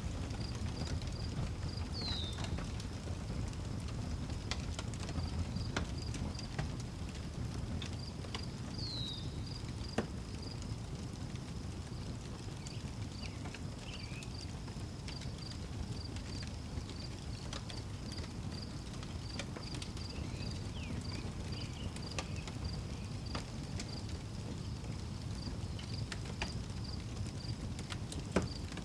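Outdoor wood fire crackling, with scattered clicks and two sharper pops, one about a third of the way in and one near the end, under crickets chirping in a steady, even pulse. A bird gives a short downward-sliding call twice early on.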